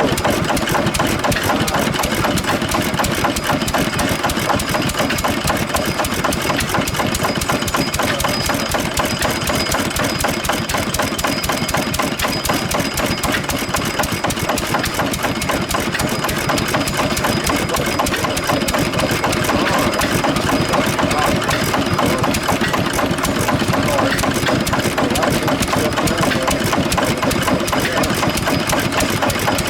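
1917 International Harvester Mogul 1 hp single-cylinder kerosene stationary engine running steadily with an even, rapid beat.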